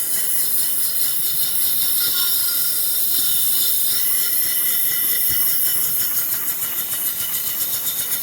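Small steamboat engine with a piston valve running on steam, being tried in reverse: a steady loud hiss of steam, with regular exhaust chuffs at about five a second coming in over the last couple of seconds.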